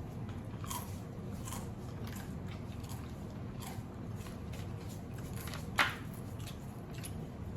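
Close-up eating sounds of raw marinated crab being chewed: soft mouth clicks and wet smacks, with one sharp click about six seconds in.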